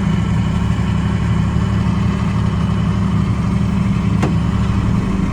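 1977 John Deere tractor engine running steadily at a constant speed, with a brief click about four seconds in.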